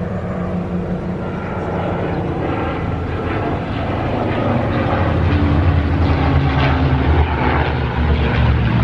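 Aircraft flying overhead at an air show, its engine noise growing steadily louder as it approaches.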